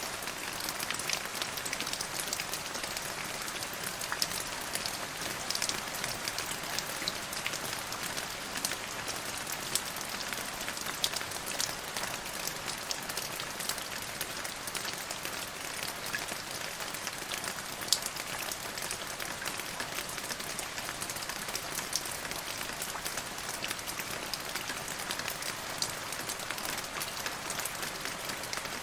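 Steady rain falling, an even hiss with many individual drops pattering and ticking, one slightly louder drop about eighteen seconds in.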